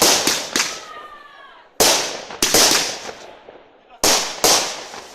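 Fireworks shells bursting overhead in loud bangs, each trailing off in an echo, coming in quick groups: two right away, a cluster of three about two seconds in, and two more near the end.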